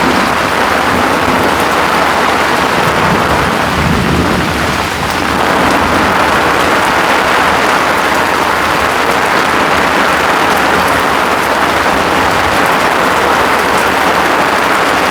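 Heavy rain falling steadily on an umbrella and mosquito net, with a low rumble of thunder under it in the first few seconds.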